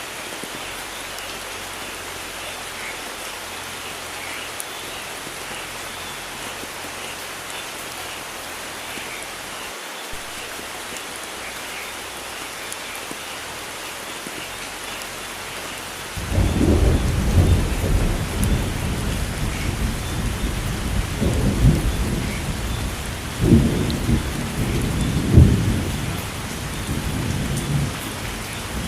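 Steady heavy rain hissing, with thunder starting about halfway through. The thunder rumbles low and loud, swelling in several peaks before easing off near the end.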